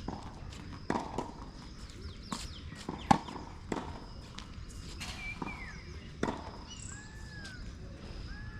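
Tennis practice on a court: scattered knocks and footsteps, with one sharp hit about three seconds in, and a few short squeaks in the second half.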